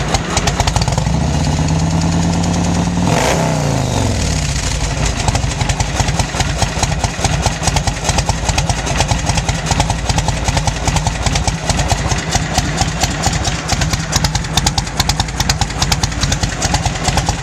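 2004 Yamaha Road Star 1700's air-cooled V-twin running through Long Shot aftermarket exhaust pipes, a low sound. It is revved once about a second in, held briefly, and falls back to a loping idle after about three seconds.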